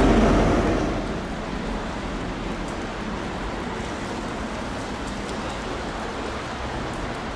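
A passing train's noise dies away within the first second, leaving a steady even hiss.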